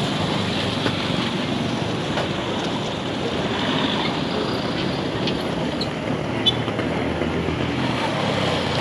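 Steady road traffic noise: vehicle engines and tyres passing on a busy street, with a few faint clicks.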